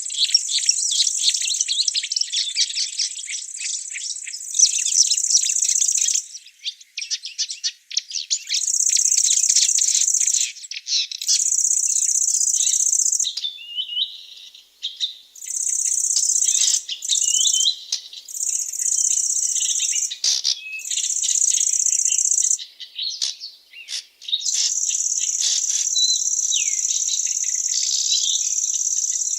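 Forest insects trilling in a high, steady buzz that stops and starts in stretches of a few seconds, with many quick bird chirps and calls underneath.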